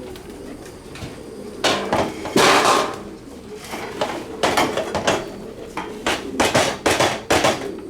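Irregular knocks and rattling clatter of a pigeon feeder and pellet feed being handled, a dozen or so sharp strikes with short rattles between them.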